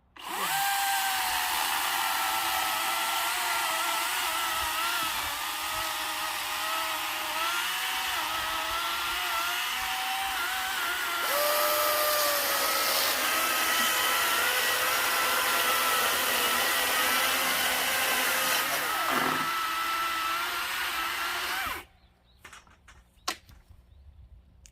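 Battery-powered cordless chainsaw running under load, cutting wood: a steady electric whine whose pitch wavers and sags as the chain bites. It cuts off suddenly near the end, followed by a few light knocks.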